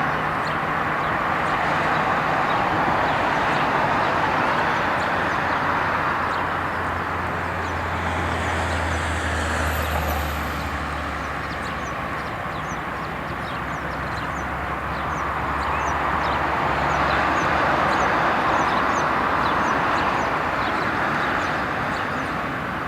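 Jet noise from an Airbus A340-600's four Rolls-Royce Trent 556 turbofans during take-off, a steady rushing sound that swells, eases about halfway through and swells again.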